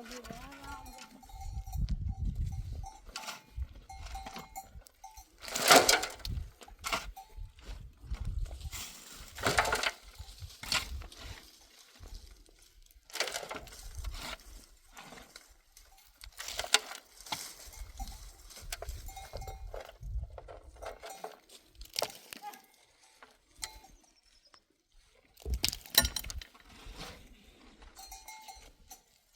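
Livestock bells clanking irregularly, with scattered sharp knocks and clinks.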